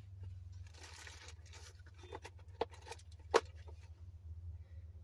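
Small objects being handled: a brief rustle, then a few sharp clicks, the loudest about three and a half seconds in, over a steady low hum.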